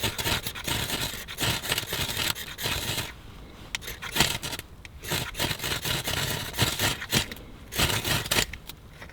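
Ferro rod struck over and over, a run of irregular harsh scrapes, throwing sparks onto birch bark to get a fire going.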